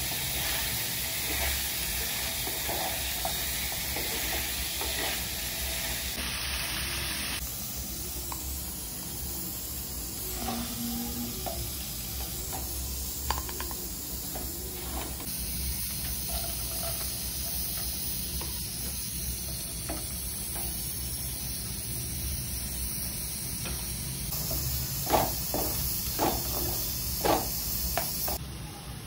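Pieces of chicken frying in oil in a wok, a steady sizzle and hiss, with a spatula stirring. Near the end, chopped onions frying and being stirred, with a few sharp spatula scrapes and knocks against the pan.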